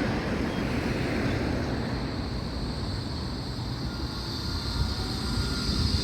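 Steady low rumble of wind on the microphone and passing traffic. Near the end a high hiss starts to build, as of an approaching tram running on its rails.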